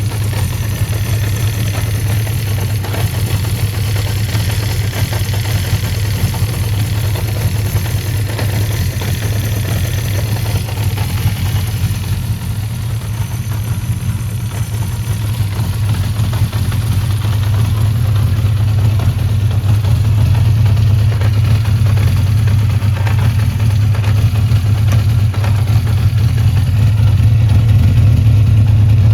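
Honda CB400F's 408cc air-cooled inline-four engine idling steadily, growing a little louder about halfway through.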